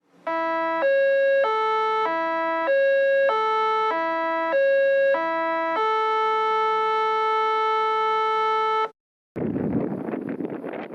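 Short electronic jingle of pure beeping tones: about nine quick notes hopping between a few pitches, then one long held note that cuts off abruptly. After a short gap of silence, wind rushes on the microphone near the end.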